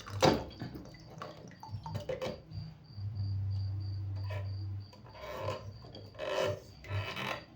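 Plastic parts of a toilet fill valve rubbing and scraping as a plastic locking nut is turned by hand, with scattered clicks. A steady low hum runs for about two seconds in the middle.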